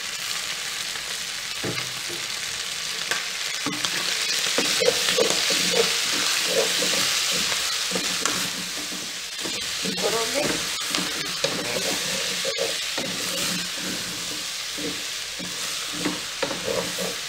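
Broiler chicken pieces, onions and freshly added diced tomatoes sizzling in a pot, frying in the chicken's own fat, while a wooden spoon stirs them with irregular scrapes and knocks against the pot. The sizzle swells in the middle, then eases a little.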